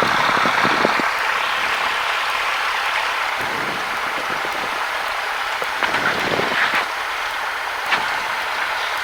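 Steady cockpit noise of a Cessna 172 running at low power on the ground after landing: an even hiss with no clear engine tone, and a few faint low knocks under it.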